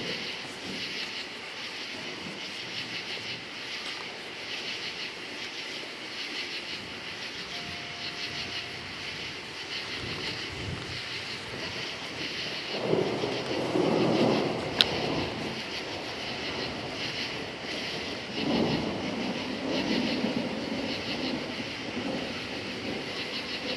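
Crickets chirping in a steady, pulsing chorus, with two rolls of distant thunder rumbling, the first about halfway through and a second near the end. A single sharp click sounds during the first roll.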